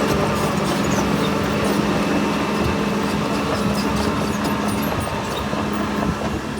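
Diesel engine of heavy earthmoving machinery running steadily under load, a continuous low hum and rumble with scattered light clicks and clanks.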